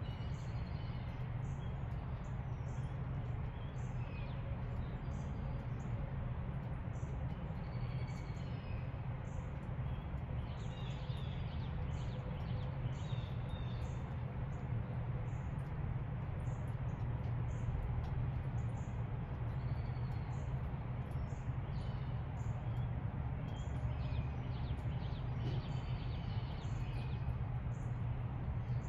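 Several songbirds chirping and calling in short notes, busiest around ten seconds in and again near twenty-five seconds, over a steady low rumble.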